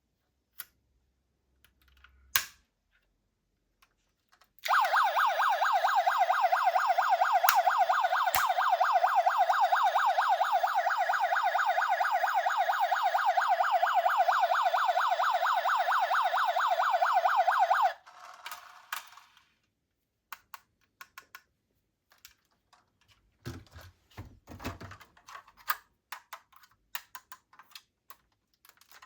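A toy police car's electronic siren sounding a fast warble for about thirteen seconds, then cutting off. Before and after it come scattered light plastic clicks and knocks.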